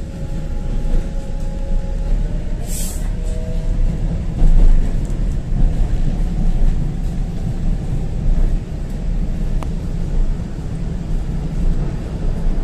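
Passenger train running, a steady low rumble with a short hiss about three seconds in.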